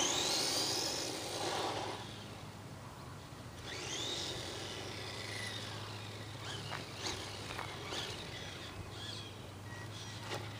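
Radio-controlled short course truck's motor whining as it speeds up and falls away, twice: once at the start and again about four seconds in, with scattered small knocks and scrapes afterwards.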